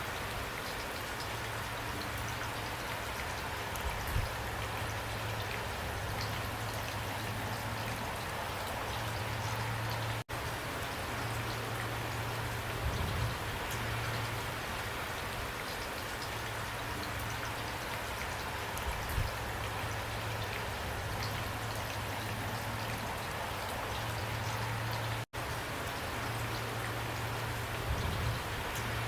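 Steady rain falling, a dense even patter with an occasional louder drop standing out. The sound cuts out for an instant twice.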